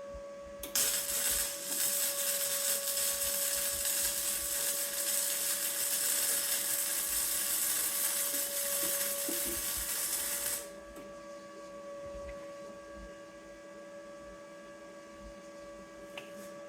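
Gasless flux-core wire-feed welder running one continuous bead, a steady crackling hiss that starts just under a second in and stops about ten and a half seconds in. A steady electrical hum runs underneath.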